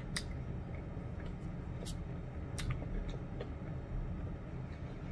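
A few faint chewing clicks over a steady low hum.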